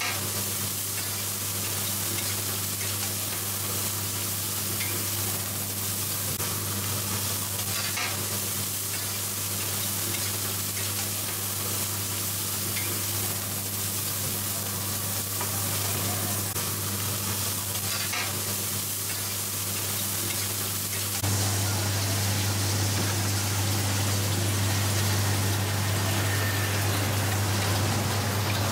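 Pancake batter frying in oil on a wide flat pan, a steady sizzle, with a steady low hum underneath that gets louder about three-quarters of the way through.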